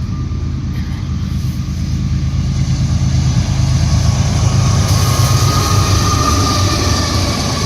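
Freight train passing close by: diesel locomotive engine rumble and rolling wheels, growing louder toward the middle, with a faint steady squeal in the second half.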